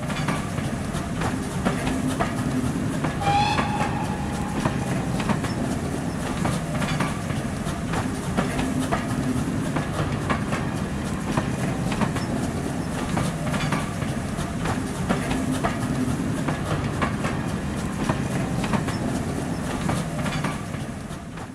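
A train running past, its wheels clicking rhythmically over rail joints over a steady rumble. A brief whistle sounds about three seconds in.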